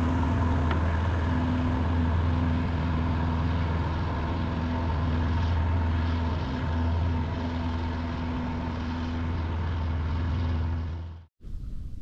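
Jet-powered river barge's engines running steadily: a loud, deep drone with a constant hum, cut off suddenly about eleven seconds in.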